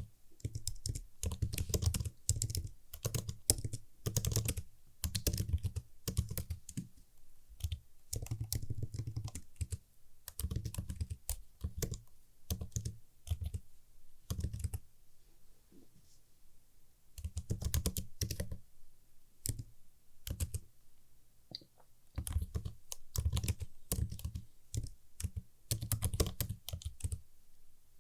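Computer keyboard being typed on, crispy key clicks in runs of quick strokes broken by short pauses, the quietest stretches about halfway through and a little after.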